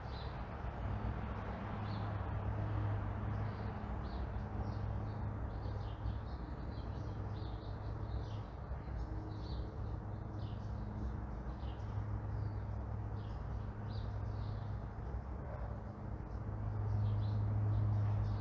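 Small songbirds chirping in many short, quick notes over the steady low rumble of distant traffic; the rumble grows louder near the end as a vehicle comes closer.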